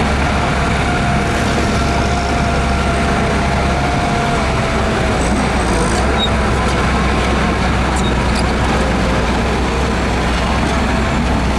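Heavy earthmoving machinery's diesel engine running steadily, with a faint thin whine over it during the first half.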